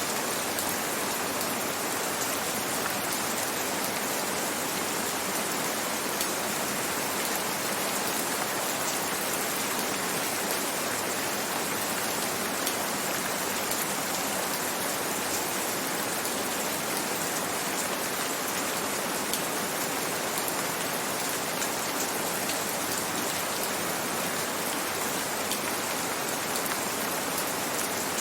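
Steady rainfall, an even hiss of many drops with faint scattered patters of drops hitting a surface.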